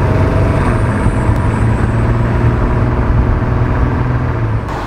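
Bentley Continental GT Speed's twin-turbo W12 engine running steadily under load as the car drives along, a deep even drone. Near the end the sound changes abruptly to a quieter passing sound with more tyre and wind hiss.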